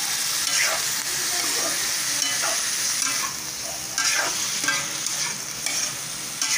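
Squid frying in oil in a metal wok, sizzling steadily, while a metal spatula stirs it and scrapes across the pan several times.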